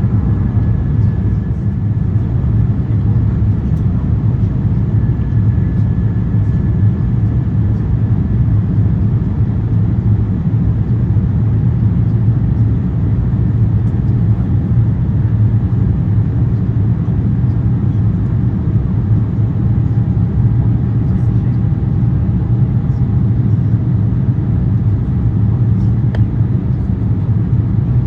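Steady cabin roar of an Airbus A350-900 in flight, from its Rolls-Royce Trent XWB engines and airflow past the fuselage, with faint steady whining tones over the low rumble.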